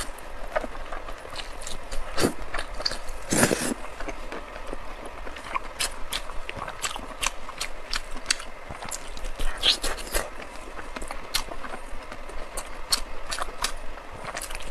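Close-miked chewing and lip-smacking on soft, fatty braised pork belly, with many quick irregular wet mouth clicks.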